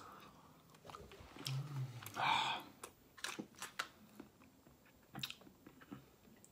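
A person chewing a spoonful of soft shredded chicken in buffalo sauce, with small wet mouth clicks and a short hummed 'mm' and breath about two seconds in.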